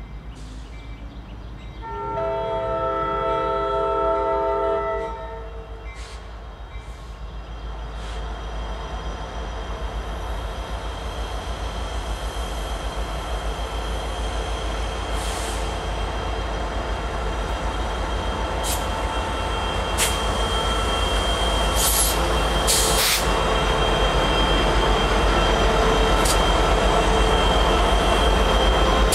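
Norfolk Southern diesel locomotives hauling a double-stack container train sound one multi-note horn chord for about three seconds. The engines and wheels then rumble steadily louder as the train draws near and passes close by, with a high steady squeal and a few sharp clanks in the second half.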